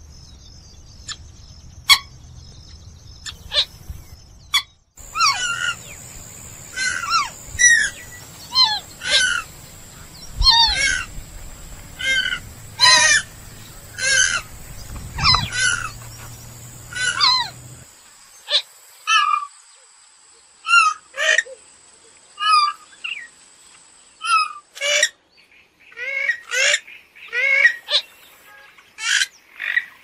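Purple gallinule (kalim) calling: a run of short, harsh, downward-sliding notes, about one to two a second, quickening near the end. The background cuts abruptly at about five and eighteen seconds, where separate recordings are spliced together. A faint steady high whine runs behind the calls for much of the time.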